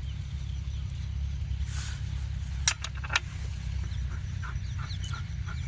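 Diesel engine driving an irrigation water pump, running with a steady low rumble. Two sharp clicks come a little under three seconds in, half a second apart.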